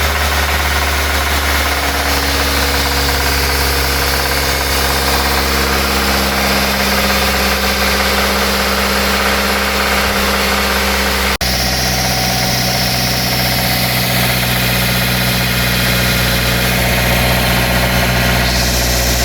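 A 2008 Suzuki SX4's 2.0-litre J20A four-cylinder petrol engine running steadily at a constant speed, with a brief break about 11 seconds in. The engine has a bottom-end rattle that the mechanic puts down to worn connecting-rod bearings.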